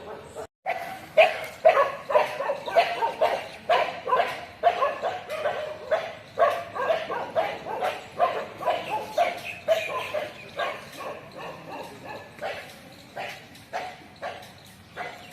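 Dogs barking repeatedly and rapidly, two or three sharp barks a second, thinning out a little near the end.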